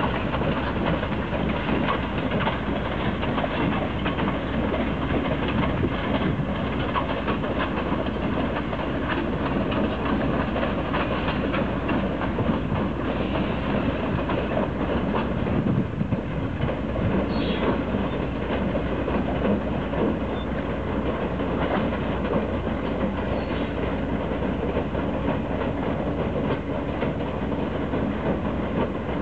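Diesel-hauled passenger train running across a long low trestle bridge: a steady noise of wheels on the rails with many small clicks, heard across open water.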